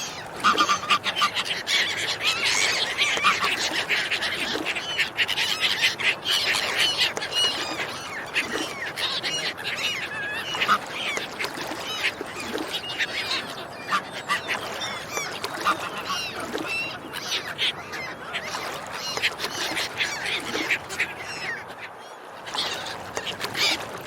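A flock of ducks and swans calling, many short overlapping calls without pause, easing briefly about two seconds before the end.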